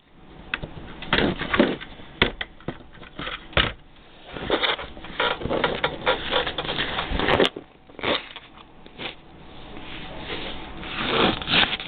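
Handling noise of plastic Lego pieces: irregular clicks, knocks and scraping as the model is moved about on a surface.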